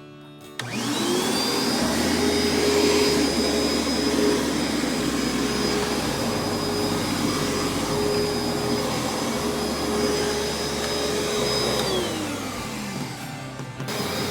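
Carpet-washing vacuum cleaner's motor switched on, its whine rising quickly to a steady pitch and running evenly. Near the end it winds down with a falling whine, then is heard running at full speed again just before the end.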